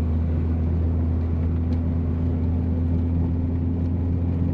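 Steady low drone of a turbocharged VW Jetta driving on a snowy road, heard from inside the cabin: engine hum and road noise at an even, unchanging level.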